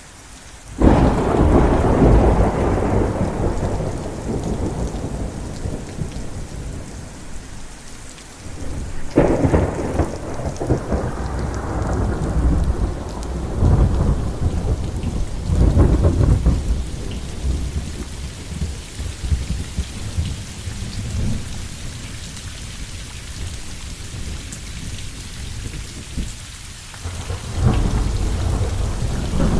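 Thunder rolling again and again over steady rain. Deep rumbles build about a second in, again around nine seconds, twice more in the middle, and once near the end.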